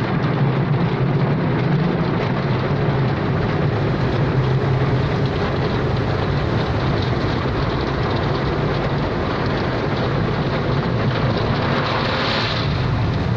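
Automatic car wash running: a steady rush of water spray and machinery over a low motor hum, swelling briefly near the end.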